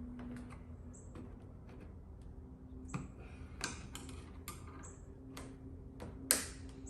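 Screwdriver prying at a car's plastic trim piece: scattered light clicks and taps, with one sharper knock a little after six seconds.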